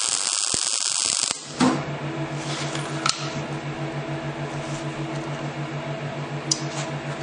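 MIG welding arc giving a steady hiss as a fillet weld is pushed along, cutting off abruptly about a second in when the torch trigger is released. After that, the welding machine hums steadily with a few light clicks.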